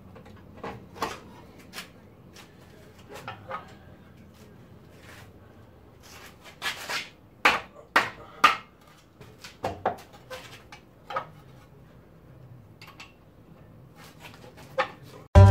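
Irregular clinks, knocks and clanks of hand tools and metal parts being worked, with a cluster of sharper clanks in the middle. Banjo music starts right at the end.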